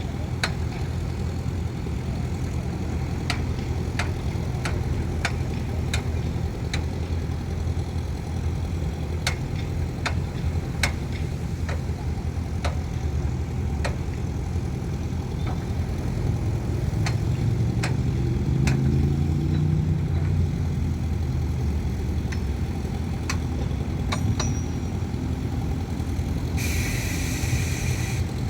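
Heavy diesel earthmoving machinery running steadily, its engine pitch rising and then settling past the middle as it works harder. Sharp metallic clinks are scattered throughout, and a short hiss comes near the end.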